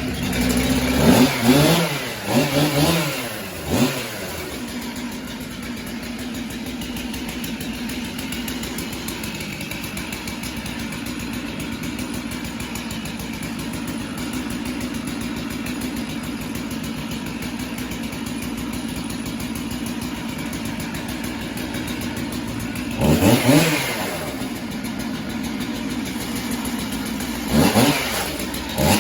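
Chainsaw engine running steadily, revved up and back down in quick blips near the start, again about two-thirds through, and once more near the end.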